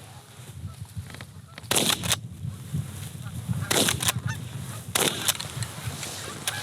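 Shotgun volley at incoming geese: three loud bursts roughly two seconds apart, each a pair of shots close together, while geese honk overhead over a steady low wind rumble.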